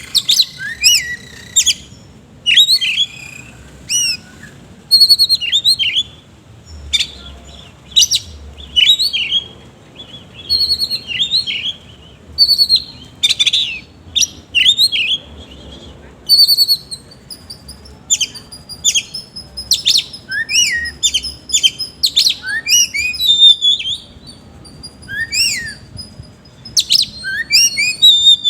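Oriental magpie-robin (kacer) singing in full voice, with loud, sharp whistled phrases and harsh mimicked notes. The phrases come in short bursts about once a second, growing into faster, denser runs of notes in the second half.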